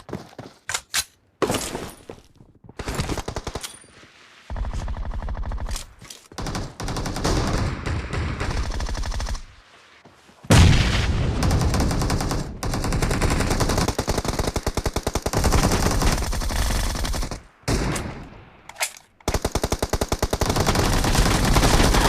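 Video game automatic gunfire: several long bursts of rapid fire, broken by short pauses, with a few single shots near the start.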